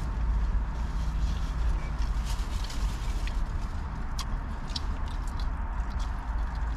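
Steady low rumble of a car idling, heard from inside the cabin, with a few faint clicks and crackles of food being eaten about four and five seconds in.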